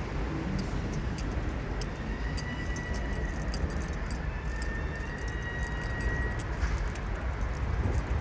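Subway train running: a steady low rumble with scattered clicks, and a thin high whine that holds for a few seconds in the middle.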